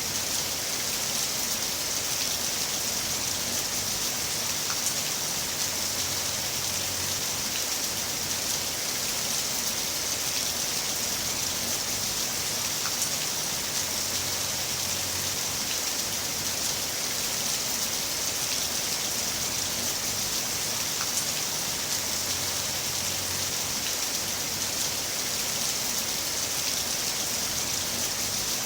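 Heavy rain falling steadily, a dense even hiss of drops with the odd single drop standing out.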